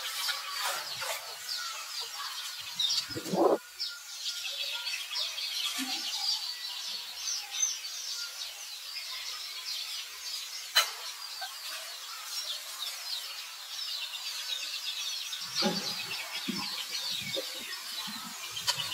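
Many birds chirping and twittering steadily in the background. A brief low sound about three and a half seconds in is the loudest moment, a sharp click comes about eleven seconds in, and a few short low sounds follow near the end.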